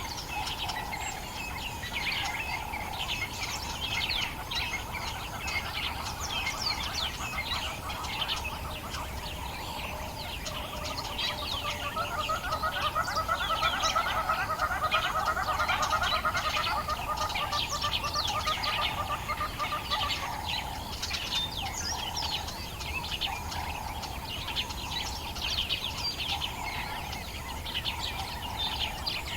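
Dawn chorus in the African bush: many birds chirping and calling together. From about a third of the way in, a louder, rapid pulsing call swells and then fades out about two-thirds of the way through.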